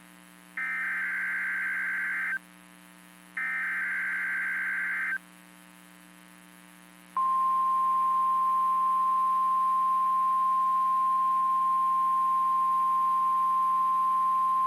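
NOAA Weather Radio alert signal: two buzzy digital SAME header bursts, each just under two seconds with a second's gap between them. After a pause, a steady single-pitch warning alarm tone starts about seven seconds in and holds, signalling that a warning is about to be read.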